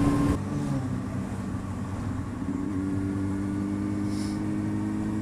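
A vehicle engine running at a steady speed under road and wind noise. The sound drops suddenly about half a second in, then holds an even note.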